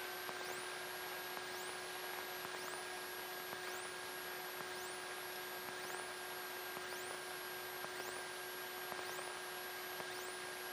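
Steady electrical hiss and hum on the aircraft's intercom audio, with a few steady whining tones and a faint high chirp rising about once a second.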